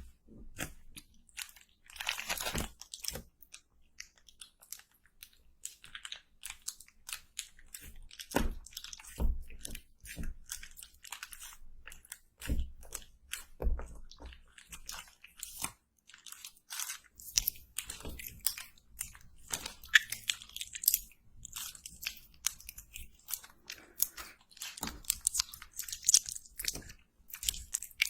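Close-up ASMR crunching: a dense, irregular run of sharp crackling clicks and crunches, busier in the second half.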